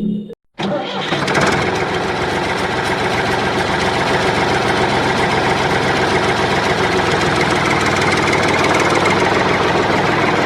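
Small electric motor of a DIY model machine starting up about half a second in, after a brief silence, then running steadily with a fine rapid whirring rattle.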